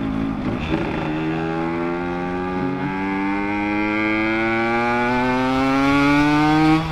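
Ported Yamaha RX two-stroke single-cylinder motorcycle engine accelerating hard in one gear, its note rising steadily and getting louder for about six seconds before cutting off sharply at the end. This is the surge into the power band that the rider likens to a turbo kicking in.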